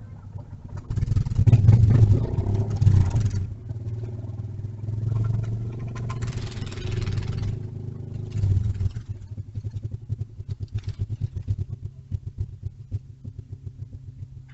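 Small mini bike engines running, loudest and closest about a second in and again around six seconds, then settling to an even putter.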